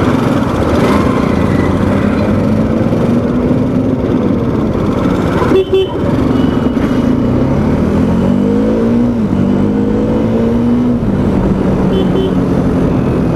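Bajaj Dominar 400's single-cylinder engine pulling under way with road and wind noise. About halfway through it revs up in a rising pitch, drops suddenly at a gear change, holds steady, then eases off near the end.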